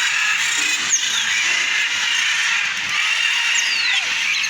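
Many small aviary birds chirping and chattering together in a steady high-pitched chorus, with a few clear whistled notes that fall in pitch.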